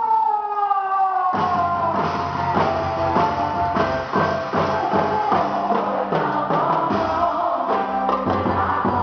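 Live band music: a long held note sliding down in pitch, then about a second and a half in the band comes in with drum kit and bass, playing a steady beat.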